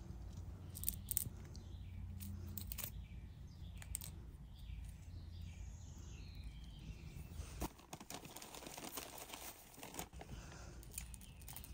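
Backyard birds chirping faintly, a quick run of short notes in the middle, over a low steady hum. A few light clicks and rustles come from pebbles in a planter's top layer of rock being touched.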